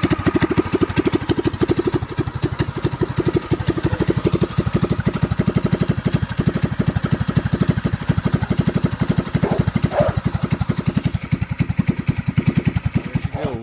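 Predator 212 single-cylinder four-stroke go-kart engine, fitted with an aftermarket exhaust and not yet rejetted, running steadily with an even, rapid firing beat. It is loud, really loud.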